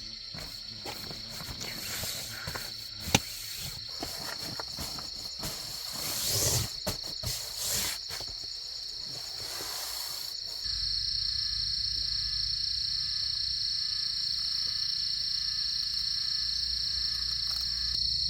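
Steady high-pitched drone of insects, with rustling and knocks and one sharp click about three seconds in. A little past halfway the sound changes abruptly to the insect drone over a steady low rumble.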